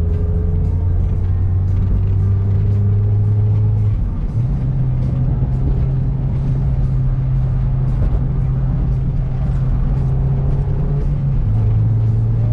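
Mazda MX-5 Miata's engine running steadily as the car drives, heard from inside the cabin over road rumble; its low drone steps up in pitch about four seconds in and drops back near the end.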